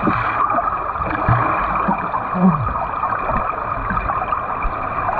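Water churning and rushing around a swimmer doing fast freestyle, with irregular low thuds from the arm strokes and kicks.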